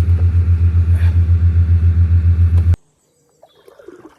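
Steady low throbbing hum of a running engine or motor, pulsing about eight times a second, which cuts off suddenly near three seconds in; faint scattered rustles follow.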